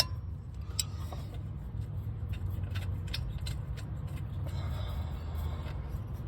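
Scattered light metallic clicks and taps of a hand wrench and bolt as a starter mounting bolt is worked in, over a steady low hum.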